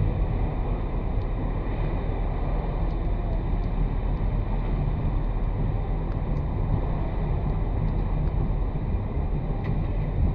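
Steady road-and-wind noise of a Chevrolet Malibu on the move, heard from a camera mounted outside on its roof: a continuous low rumble with a few faint ticks.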